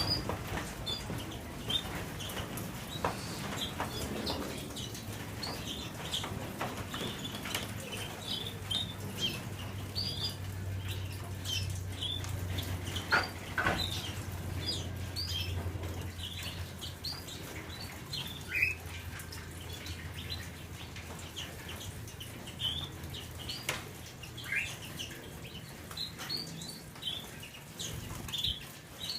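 Canaries giving short, scattered chirps over and over, with wing flapping and light clicks among them.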